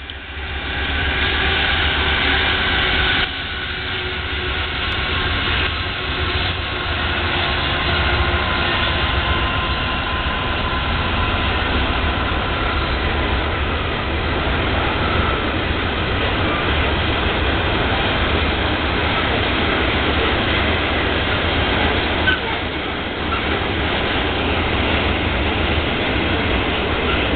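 Freight train passing: Union Pacific diesel locomotives followed by loaded rock hopper cars rolling by, a continuous rumble. Several steady high tones sound over it and cut off sharply about three seconds in.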